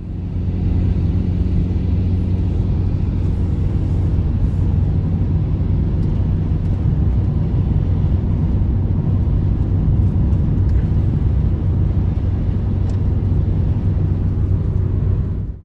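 An engine running at a steady, even pitch with a strong low hum. It cuts in abruptly and stops abruptly.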